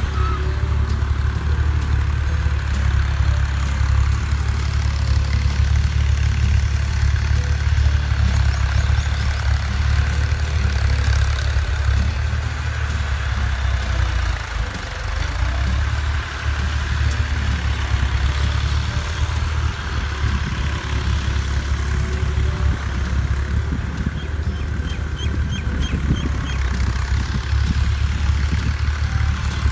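Al-Ghazi New Holland tractor's diesel engine running steadily under load while pulling a plough.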